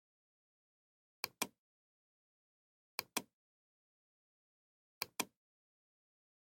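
Computer mouse clicking: three quick pairs of sharp clicks, about two seconds apart.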